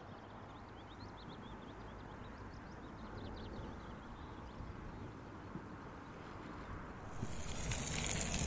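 Quiet outdoor background with faint, brief bird chirps. About seven seconds in, a camping stove starts a steady hiss that grows louder.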